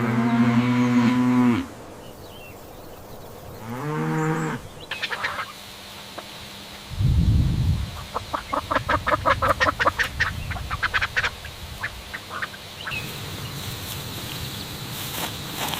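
A cow mooing, one long moo at the start and a shorter one about four seconds in, followed by a goose honking in a rapid run of short calls lasting several seconds. A brief low thump comes about seven seconds in.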